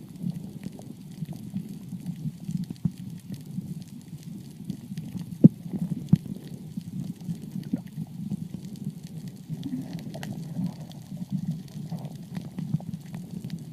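Underwater ambience: a muffled, low rumble with scattered crackling clicks, one sharper click about five and a half seconds in.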